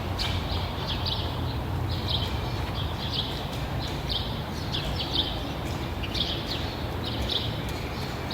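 Birds chirping in short, repeated calls, several a second, over a steady low background rumble.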